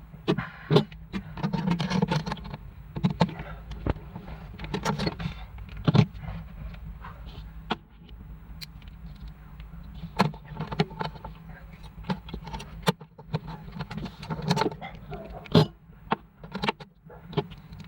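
Irregular clicks, taps and short metallic rattles of small parts being handled, over a steady low hum.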